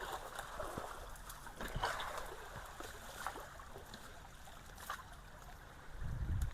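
Ditch water trickling and gurgling as it flows around and under a log and debris jam at a clogged culvert, with scattered small splashes or knocks. A low rumble comes in near the end.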